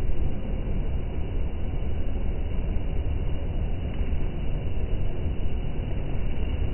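East Midlands Railway Class 156 diesel multiple unit coach rolling slowly past the platform: a steady low rumble of the train running.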